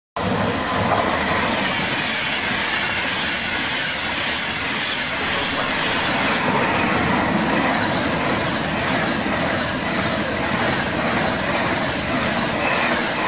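White-liveried Class 390 Pendolino electric train passing close alongside the platform at speed. It makes a loud, steady rush of wheel and air noise with a faint regular clatter of wheels over the track.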